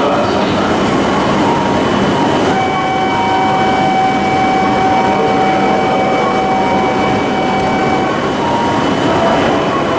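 Shinkansen train noise on a station platform: a steady rushing roar, with a held whine that comes in about two and a half seconds in and stops about eight seconds in.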